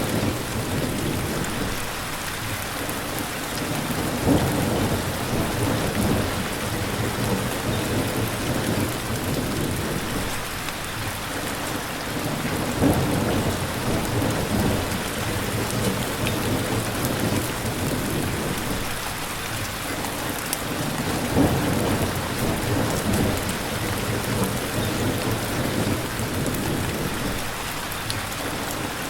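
Steady, dense rain hissing, with low rumbles of thunder rolling in and fading three times.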